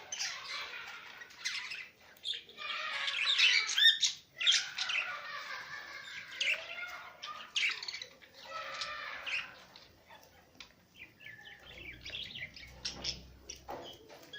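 Small pet parrots chattering and chirping, busy for the first ten seconds or so, then thinning to scattered chirps and clicks.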